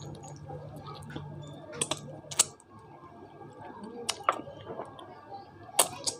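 Close-miked eating: a person chewing boiled chicken, with wet mouth smacks and a scatter of sharp clicks, the loudest about two and a half seconds in and near the end.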